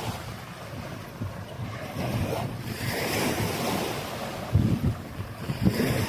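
Wind buffeting the microphone in uneven gusts over the wash of small waves on a sandy beach, the surf swelling about two seconds in.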